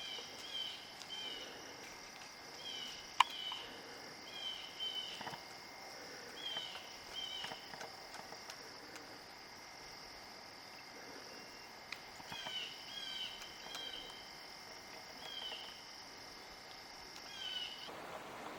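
Forest insects droning steadily at a high pitch, with a bird calling over them in short chirps, mostly in pairs, every second or two. A single sharp click comes about three seconds in, and the insect drone cuts off suddenly near the end.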